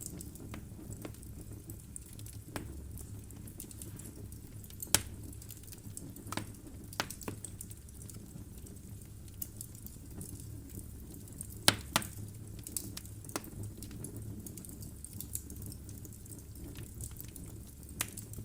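Logs burning in a fireplace, crackling with irregular sharp pops over a low steady rumble. The loudest pops come about five seconds in and again around twelve seconds in.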